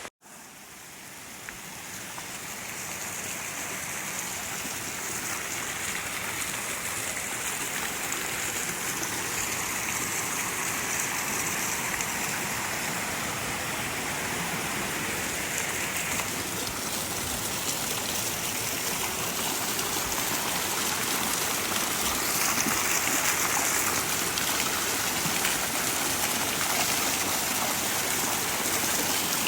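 Steady rush of falling water from a waterfall, starting after a brief dropout and growing louder over the first several seconds.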